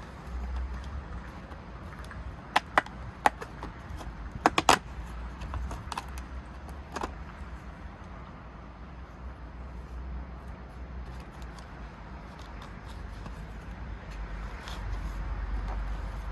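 Hands handling small items, with a few sharp clicks between about two and seven seconds in, the loudest a quick cluster near the middle, over a low steady rumble.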